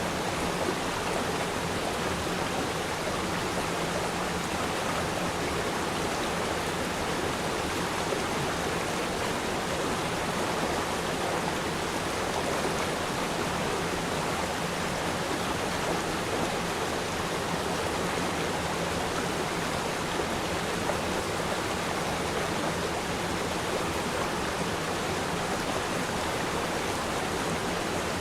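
A river stream flowing steadily over rocks, an even rushing of water with no breaks.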